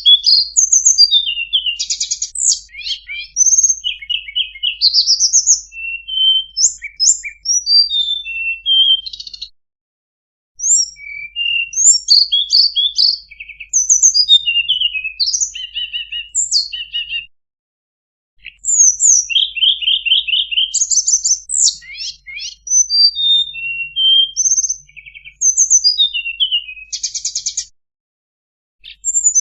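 Tledekan gunung songbird singing a long, varied song of quick whistled notes, slurred glides and fast trills, broken by three brief silences.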